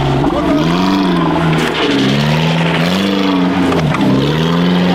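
Off-road 4x4 engine revving up and down several times, its pitch rising and falling about every second and a half.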